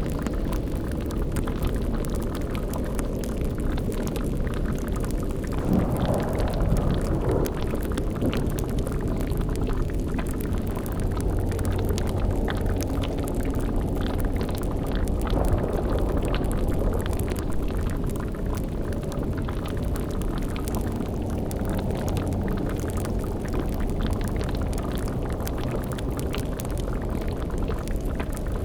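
Layered spooky ambience: a bubbling, crackling cauldron over a steady deep rumble, with two brief swells in level, about six and fifteen seconds in.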